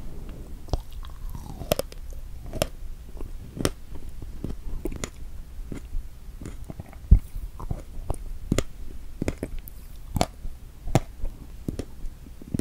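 Close-miked chewing of a whipped-cream-topped strawberry, with the mouth cupped by a hand right at the microphone. Irregular wet mouth clicks and smacks come about once or twice a second, one louder near the middle.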